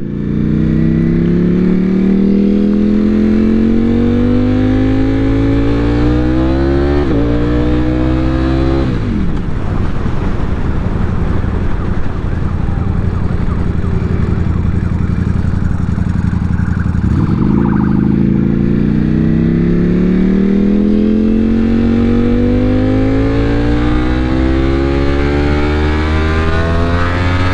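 Ducati Panigale V4 sportbike engine under way with wind rush, its note climbing slowly as the bike accelerates. The pitch drops suddenly about seven seconds in, as in an upshift, and falls again around nine seconds. It runs lower for a while, then climbs steadily again from about seventeen seconds.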